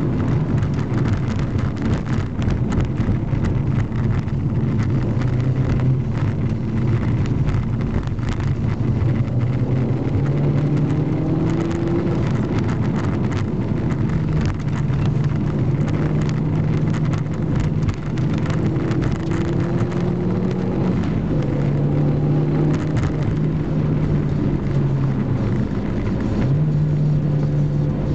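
Seat Ibiza Cupra's engine heard from inside the cabin at speed, its note rising and dropping several times as the car accelerates and eases off, over steady road and tyre noise.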